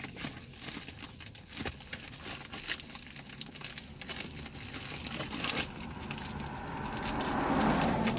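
Package wrapping being handled and opened by hand: scattered crinkling, crackling and small taps, with a longer, louder rustle near the end.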